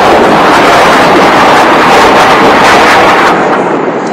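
Military aircraft flying low overhead, its engine noise very loud and filling the whole range, holding for about three seconds and then easing off as it passes.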